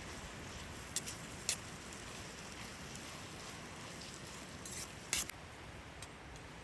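Steady hiss of rain, with a few sharp clicks and knocks spread through it, the loudest a little past the middle.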